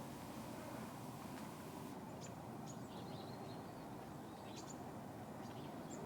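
Small songbirds chirping: short, high calls scattered from about two seconds in, over a steady low background hiss.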